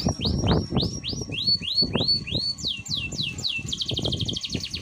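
Canary singing in tours: runs of clear whistled slurs about three or four a second, first rising and then falling, then a fast rattling trill near the end. Irregular low knocks and rustles sound underneath.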